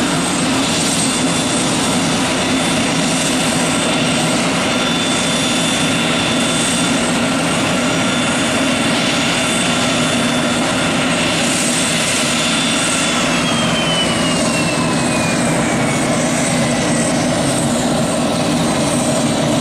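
Business jet engines running loud and steady, with a high turbine whine that holds one pitch and then slides down in pitch over several seconds near the end.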